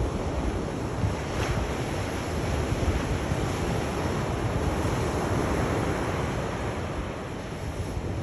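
Sea waves washing onto a shore in a steady rush, one swell building and easing about halfway through, with wind noise on the microphone.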